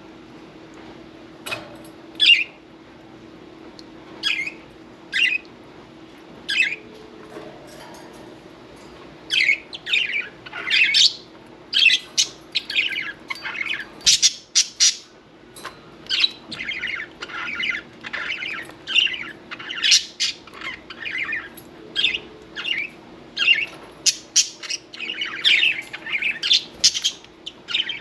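Budgerigars chirping and squawking: a few single calls in the first seconds, then dense, busy chatter from about nine seconds in. A faint steady hum runs underneath.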